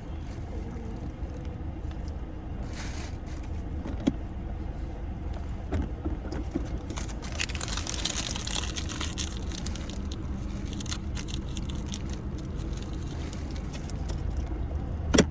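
Steady low rumble of a car, heard from inside the cabin. A few sharp clicks and a brief jingling rattle sound about halfway through.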